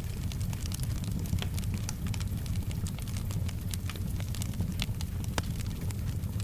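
Wood fire crackling, with frequent small, irregular pops and snaps over a steady low rumble of the flames, and soft rain in the background.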